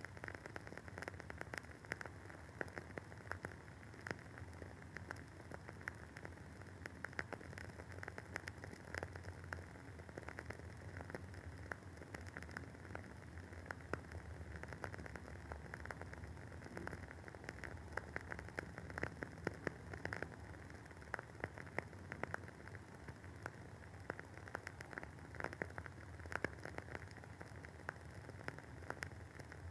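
Wooden candle wick burning with a soft, continuous crackle: many small pops and clicks, several a second, over a faint hiss.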